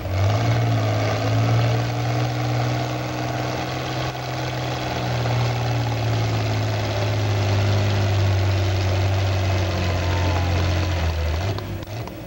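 Oliver 88 tractor's six-cylinder engine running hard under full load on a pulling run, its pitch sagging slightly as it lugs down. It drops off suddenly near the end as the run finishes.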